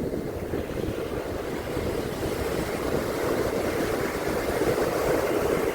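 Surf washing onto a beach, with wind buffeting the microphone in a ragged low rumble. The wash grows louder from about halfway through.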